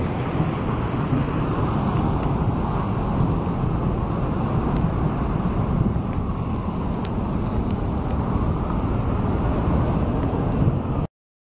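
Steady low outdoor rumble, the kind left by road traffic and wind on the microphone, with a few faint ticks; it cuts off suddenly near the end.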